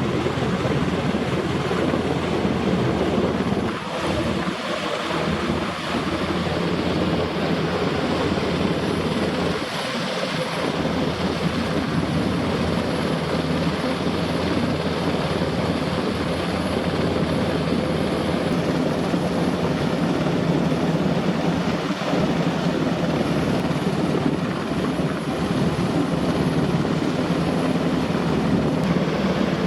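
NH90 helicopter running close by, a loud, steady rotor and engine noise.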